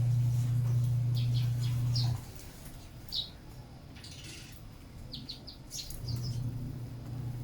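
Sparrows giving short, scattered high chirps. A steady low hum, the loudest thing here, stops about two seconds in and comes back near the end.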